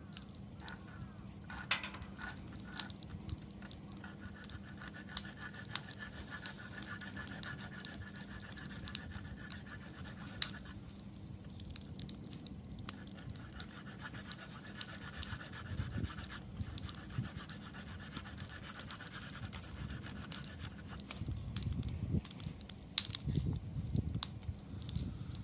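Wood campfire burning and crackling, with scattered sharp pops and snaps. A high, rapidly pulsing tone comes and goes twice, and low rushing bursts grow louder near the end.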